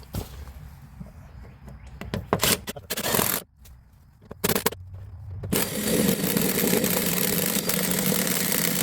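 A few knocks and scrapes, then from about halfway through an electric drill runs steadily for about four seconds, boring through wood.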